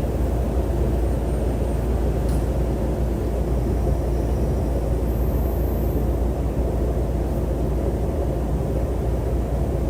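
Steady rumble of an E531-series electric commuter train in motion, heard from inside the car: wheels on rail and running gear, with no marked rise or fall in speed.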